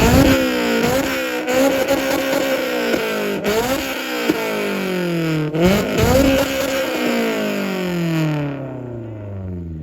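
Loud 2004 Honda S2000 four-cylinder engine being free-revved through its exhaust: several quick climbs and drops in pitch, then a long fall back toward idle near the end. It revs clean, with no backfire or two-step pops.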